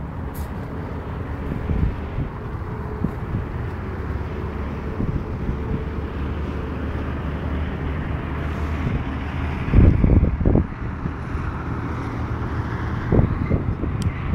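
Jaguar Agro 250 ATV engine running steadily at low revs, with a few loud low thumps about ten seconds in and again near the end.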